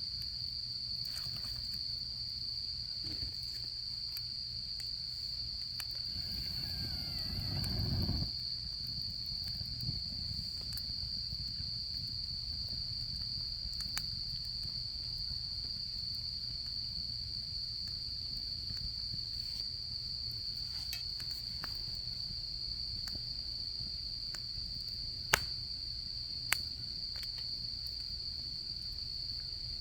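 Autumn insects chirring in one steady, unbroken high tone, over the low rumble and scattered crackles of a campfire. There is a brief low rushing swell about a quarter of the way in, and two sharp pops from the fire near the end.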